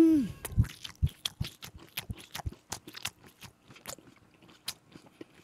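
Close-miked chewing of a mouthful of grilled spicy pork and onions: a run of wet smacking and crunching clicks, a few a second and uneven. It follows a short hummed 'mmm' of enjoyment right at the start.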